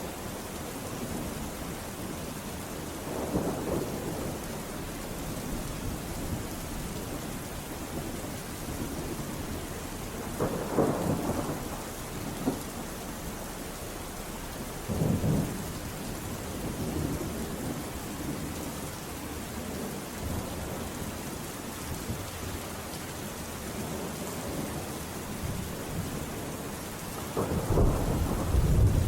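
Steady rain falling, with thunder rumbling several times; the loudest and longest roll builds near the end.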